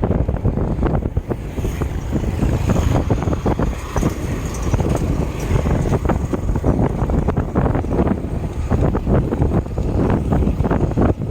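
Wind buffeting the microphone of a camera riding along on a moving bicycle: a loud, steady low rumble broken by frequent short crackles.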